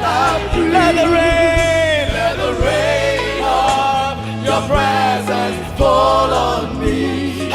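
Gospel worship music: voices singing long, drawn-out notes over a band with a steady bass line and drum hits.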